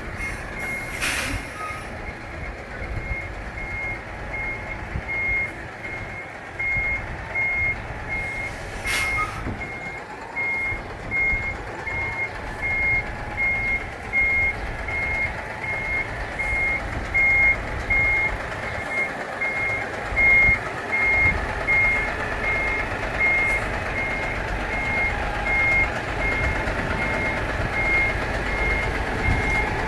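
Truck's reversing alarm beeping steadily about twice a second over the running diesel engine, as the truck backs up. Two short hisses of air break in, about a second in and again about nine seconds in.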